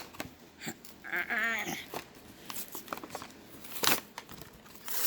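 A Hot Wheels blister pack being struggled open: plastic and card clicking and crackling, with a brief wavering whine about a second in and a loud sharp crack near the end.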